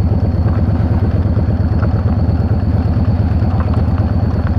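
Yamaha V-Star 650's air-cooled V-twin engine running steadily under way, a continuous low pulsing drone with no change in speed.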